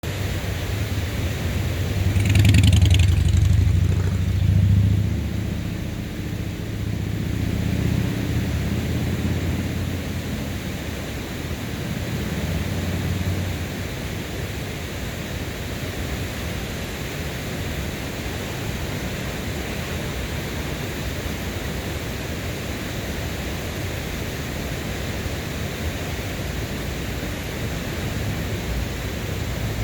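River water rushing steadily. A low rumble rises over it a couple of seconds in, is loudest for the next few seconds, and fades out by about halfway.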